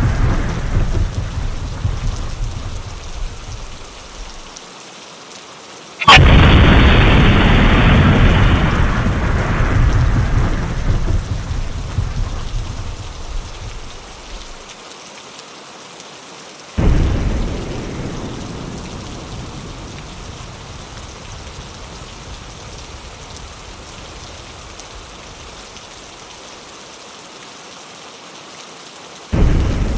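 Thunderstorm: steady rain with rolling thunder. A rumble fades out over the first few seconds, a sharp thunderclap about six seconds in rolls on for several seconds, another clap comes about seventeen seconds in, and a third just before the end.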